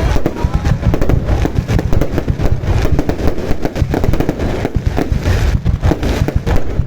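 Fireworks display going off in a dense, continuous barrage: booms and crackling bursts overlapping one another with no pause.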